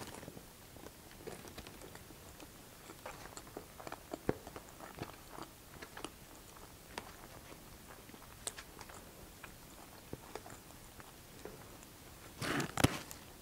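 Faint chewing of a mouthful of loaded fries, with small wet mouth clicks scattered throughout, and a plastic fork working in a foam takeout box. A louder cluster of clicks comes near the end.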